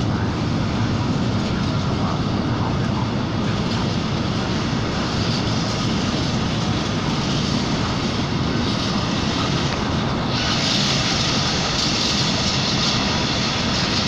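Freight train of empty container flat wagons rolling past: a steady rumble of wheels on rail. About ten seconds in, a louder, higher hiss joins the rumble.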